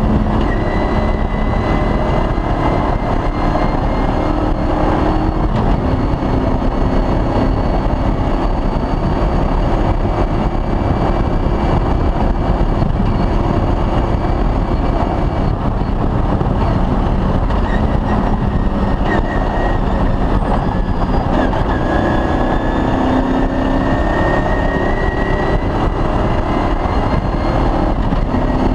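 Offroad rally vehicle's engine running hard at speed, its pitch climbing and dropping, over a steady rush of noise.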